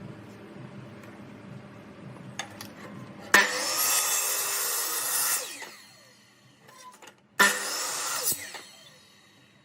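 A power tool working wood. A lower working noise runs for about three seconds, then the tool runs loud twice, for about two seconds and then about one second, and its pitch falls away after each run as the motor winds down.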